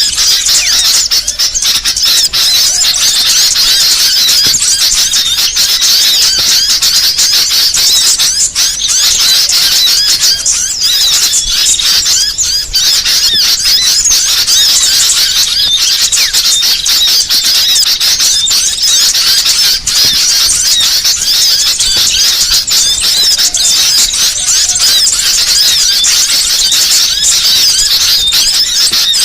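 Dense, unbroken chirping and twittering of many small songbirds, rapid high-pitched notes overlapping one another: a masteran lure-call recording of small birds.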